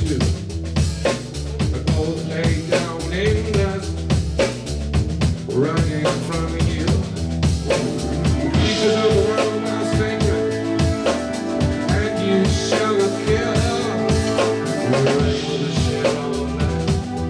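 Live band playing an instrumental passage: a drum kit keeps a steady beat over a bass line, and held melodic notes come in about halfway through.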